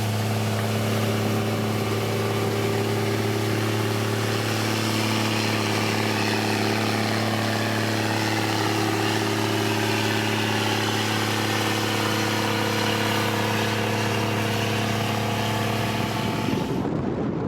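Heavy road-construction machine's engine running at a steady speed, a constant low hum. Near the end it gives way to rough, gusty noise like wind on the microphone.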